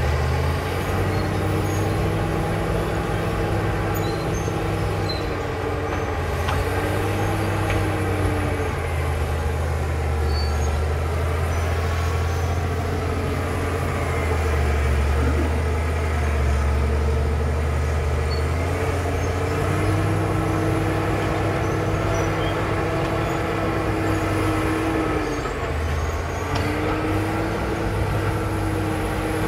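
Caterpillar D7 bulldozer's diesel engine running hard as the dozer works, its pitch rising and falling several times as the load changes.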